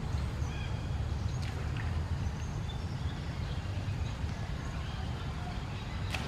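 Steady low outdoor rumble with faint short high chirps and a couple of light clicks.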